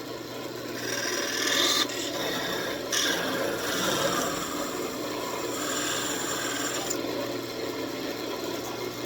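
Rubbing against a walnut rosette spinning on a wood lathe, likely shellac being worked on with a rag, over the steady hum of the lathe motor. The rubbing swells about a second in and eases off near the end.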